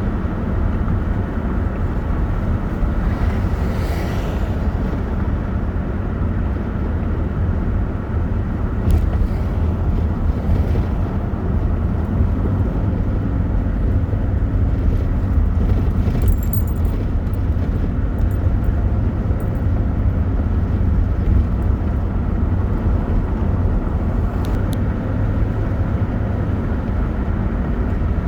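Steady low rumble of a vehicle moving along a road, with a few faint clicks.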